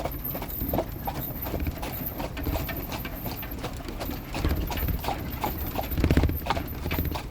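Horse's hooves clip-clopping in a steady, even rhythm.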